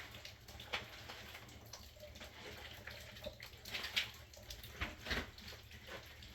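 Water running and splashing, with irregular knocks and clatter of handling.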